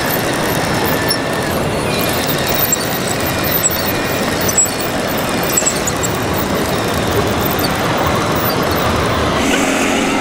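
Radio-controlled construction models running: small electric motors and gears whining in short high tones over a steady mechanical noise, with a few light clicks.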